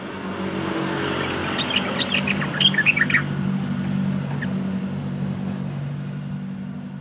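Yellow-vented bulbul (trucukan) singing: a quick burst of chirpy notes about two seconds in, then a few thin, high, falling whistles. A steady low hum runs underneath.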